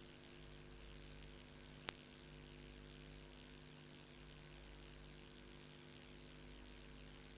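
Near silence: a steady low mains-type hum and hiss from VHS tape playback with no programme sound, and one sharp click about two seconds in.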